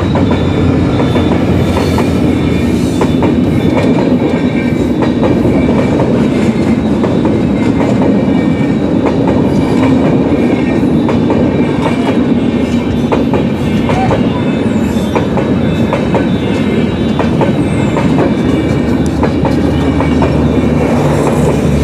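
A train passing close by at a railway level crossing: a steady loud rumble with repeated clacks of the wheels over the rail joints.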